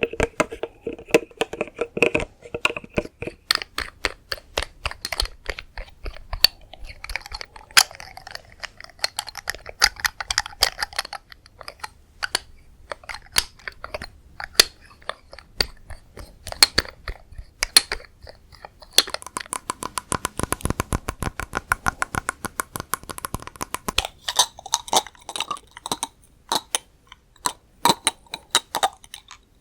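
Rapid ASMR tapping on hard objects: many sharp clicks in quick succession, some objects ringing briefly with a tone. A denser run of fast taps comes about two-thirds of the way in.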